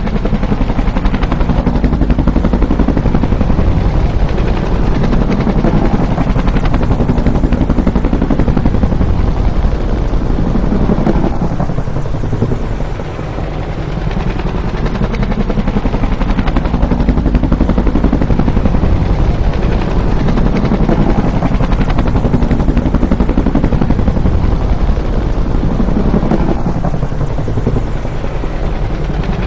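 Bell UH-1 "Huey" helicopter's two-bladed main rotor beating loudly and steadily. The sound eases briefly about halfway through and again near the end.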